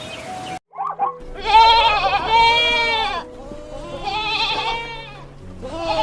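Farm animal bleating: a short call about a second in, then three long wavering bleats, the first the longest and loudest.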